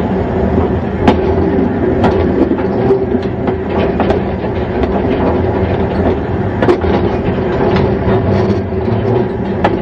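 Train running along the track: a steady low rumble with irregular clicks and knocks from the wheels on the rails.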